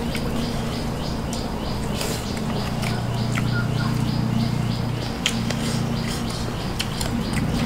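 Close-up eating sounds of rice and curry eaten by hand: many small wet clicks and smacks of chewing and fingers working the rice, over a steady low hum.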